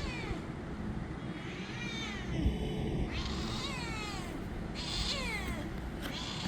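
Domestic cat meowing repeatedly, about four drawn-out meows that each fall in pitch, the calls of a hungry cat asking for food.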